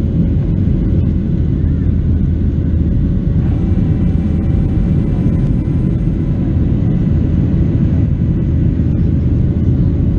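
Steady cabin noise inside a Boeing 737-700: a loud, even low rumble of engine and airflow with a faint steady hum above it.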